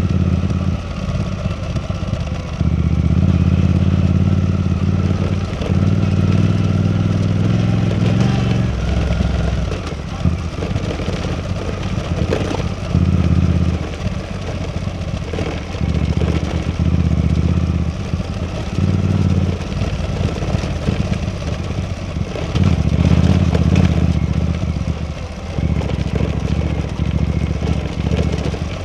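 Suzuki V-Strom 800DE's parallel-twin engine running while riding, swelling and easing off every one to three seconds as the throttle is opened and rolled off.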